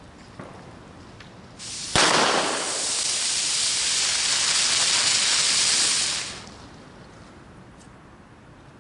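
A firework going off: a short hiss, a sharp crack about two seconds in, then a loud hissing spray for about four seconds that dies away.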